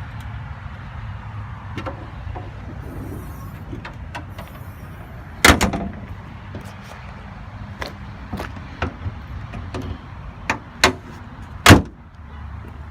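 A pickup's hood being handled and shut: sharp metal clunks, with a single loud slam near the end, over a steady low rumble.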